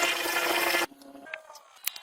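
A machine or power tool running with a loud hiss over a steady hum, cutting off abruptly just under a second in, followed by faint scattered clicks.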